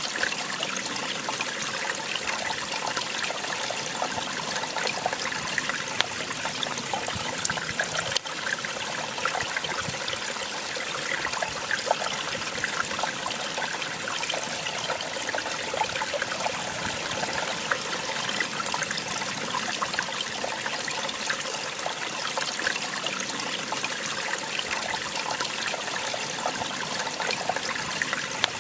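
Small waterfall splashing and trickling steadily, with a dense patter of small splashes. There is a single sharp click about eight seconds in.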